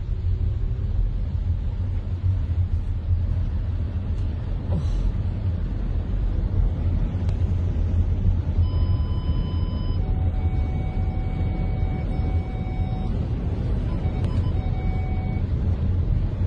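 A steady, loud low rumble throughout. From about the middle, several thin steady tones come in and stop a few seconds later.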